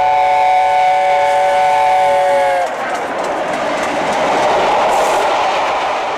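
A train whistle sounds one long, steady chord of several notes and stops about two and a half seconds in. A steady rushing noise of a train running follows and is cut off abruptly at the end.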